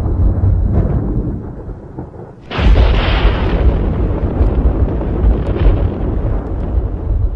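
Thunder rumbling, dying down briefly, then a sudden sharp crack of thunder about two and a half seconds in, followed by heavy continued rumbling.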